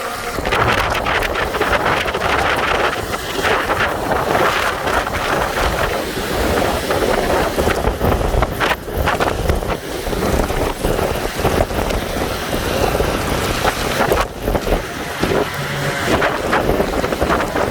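Heavy downpour with wind buffeting the microphone: a dense, loud rush of noise with irregular gusty surges.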